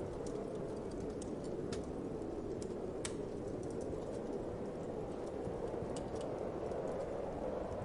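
Wood fire crackling with scattered sharp pops, a loud one about three seconds in, over a steady low rushing of wind.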